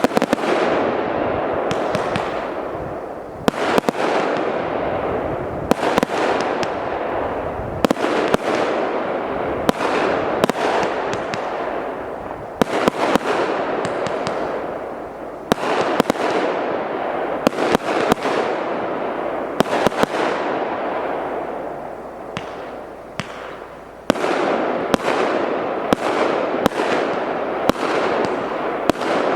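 A 200-shot, 0.8-inch consumer fireworks cake firing in a rapid continuous volley. Sharp shots and bursts, one or more a second, sit over a dense continuous hiss of bursting effects. The firing eases briefly about 22 to 24 seconds in, then resumes at full intensity.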